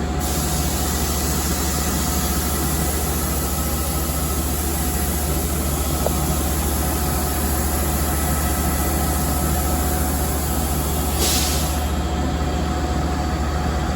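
Long Island Rail Road train running, a steady low hum and rumble with a few faint steady tones. A short hiss comes about eleven seconds in.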